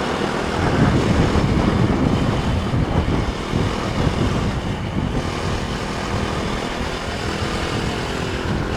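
KTM Duke 390's single-cylinder engine running as the motorcycle is ridden along, with a steady rush of wind and road noise.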